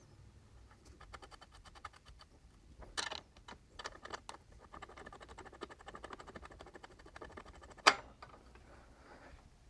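Runs of rapid light mechanical clicking from hand work on a bicycle's crank and bottom bracket, broken by a few sharper knocks, the loudest near the end.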